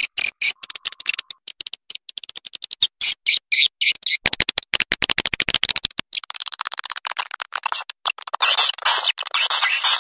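Swiftlet call lure recording: edible-nest swiftlet chattering, made of rapid high-pitched clicks and twittering trills. About halfway through, a coarser buzzing rattle comes in for a couple of seconds, then gives way to a denser, hissing chatter.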